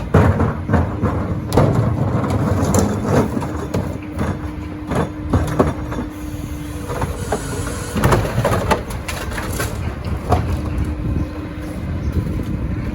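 Heil Dura-Pack rear-loader recycling truck at work: engine and hydraulics running with a steady hum that drops out about 7 s in and returns briefly later, over repeated clattering and banging of recyclables in the hopper.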